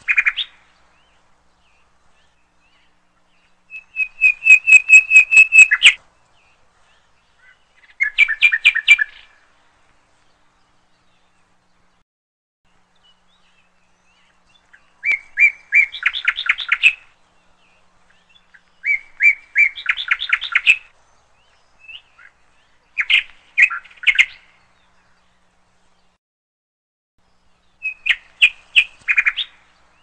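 A songbird calling in short bursts of quick repeated chirps, each burst a second or two long, with several seconds of silence between them.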